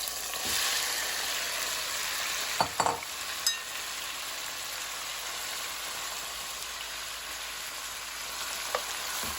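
Chopped onion, scallion, garlic, thyme, scotch bonnet and bell pepper sizzling as they sauté in a hot pot. A few sharp knocks of the stirring spoon against the pot come about two and a half to three and a half seconds in, and once more near the end.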